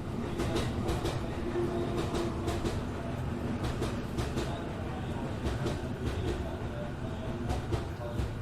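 E233-7000 series electric train running between stations, heard from inside the car: a steady rumble of wheels on rail with a faint hum of traction motors holding a few steady tones. Wheels clack over the rail joints again and again.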